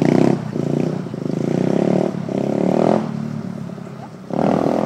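125cc pit bike engine running with the throttle opened and closed. It is loud at the start, rises again in the middle and once more near the end.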